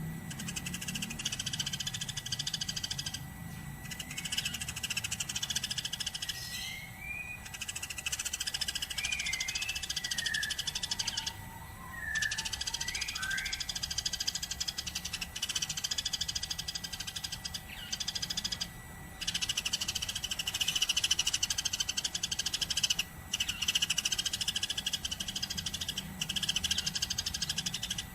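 Eurasian tree sparrows chirping in a dense, rapid, continuous chatter, broken by a few brief pauses, with a few short rising whistled notes in the middle.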